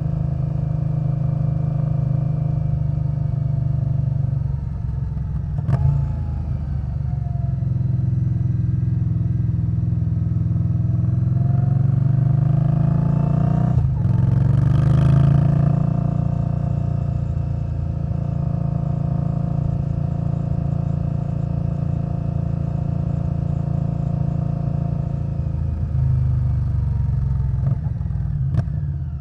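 2021 Indian Scout Bobber Twenty's 1133 cc V-twin running through a Vance & Hines Twin Slash exhaust while riding. The revs climb, then a sharp click and a drop in pitch about halfway through as it shifts up, before it settles to a steady cruise.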